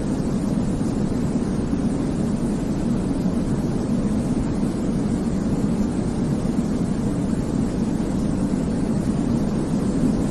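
Steady, deep sleep noise for babies: an even, unbroken rumbling hiss weighted toward the low end, with no rhythm or change.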